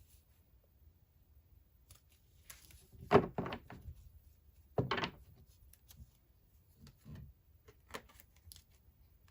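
Cards being handled on a tabletop during a card reading: a few short knocks and scuffs, the loudest about three and five seconds in, with smaller taps later.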